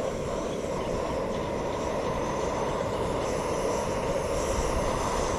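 Portable gas stove burner roaring steadily as it heats water for coffee.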